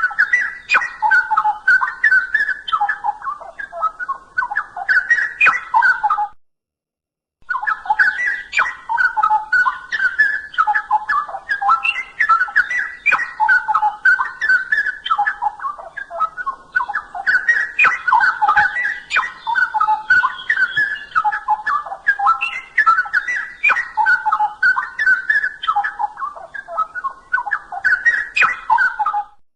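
Straw-headed bulbul (cucak rowo) singing its loud, rich, bubbling warble of fast liquid notes in a continuous stream, cut off completely for about a second roughly six seconds in before the song resumes.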